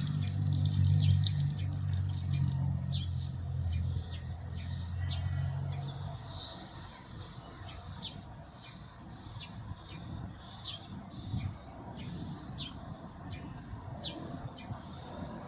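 Birds chirping at a nesting tree: short repeated chirps about once a second over a steady, high-pitched wavering chorus. A low hum runs underneath for the first six seconds and then stops.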